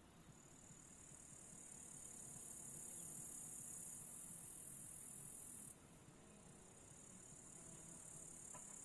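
Crickets or similar grass insects chirring in a steady, high-pitched drone. It grows louder, drops off suddenly about two-thirds of the way through, then builds again.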